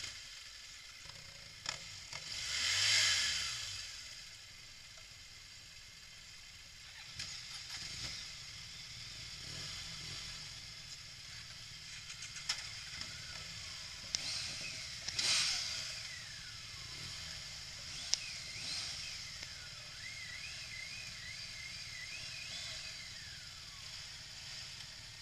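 Vehicles passing by, one swelling and fading about three seconds in and another around fifteen seconds, over a steady hiss of outdoor ambience with a few clicks.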